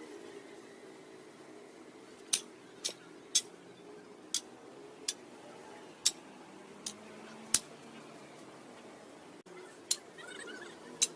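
Light, sharp clinks or taps, about ten at irregular intervals, over a faint steady hum.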